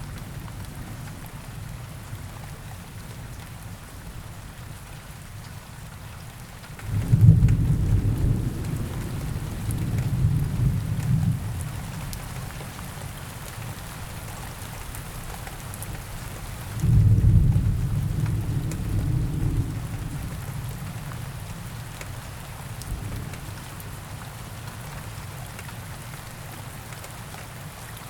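Steady forest rain, with two low rolls of thunder, one starting about seven seconds in and another about seventeen seconds in, each rumbling for a few seconds before fading back into the rain.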